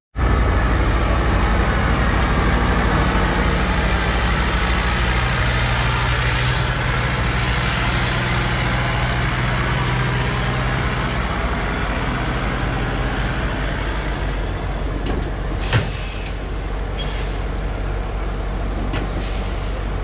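Semi truck engine running steadily, with a short sharp burst of noise about sixteen seconds in.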